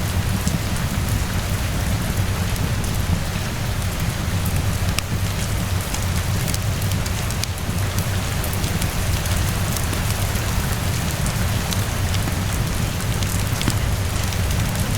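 Steady rain falling, with a low steady rumble underneath and scattered sharp crackles from a fireplace.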